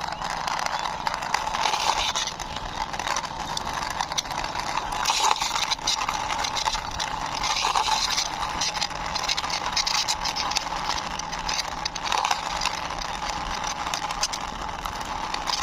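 Plastic toy car pushed along by hand, its small wheels rolling and rasping over the surface in uneven swells.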